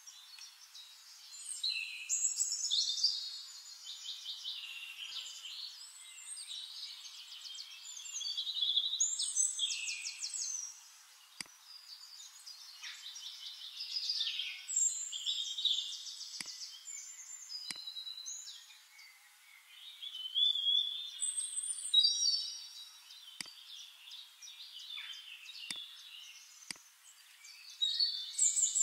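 Several songbirds singing at once, an overlapping chorus of rapid trills, chirps and whistles that swells and fades in waves, with a few faint clicks in the second half.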